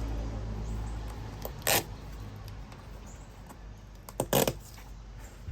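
Brief ripping sounds of backing being peeled off adhesive attachment strips, once about two seconds in and again, doubled, near the end, over a low steady hum.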